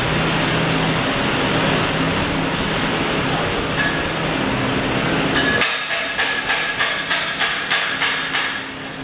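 A steady hiss, then from about halfway in a hammer striking metal in quick, even blows, about two or three a second.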